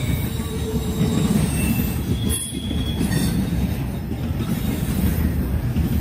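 Freight train cars rolling past close by: a loud, steady rumble of steel wheels on rail, with faint high wheel squeals now and then.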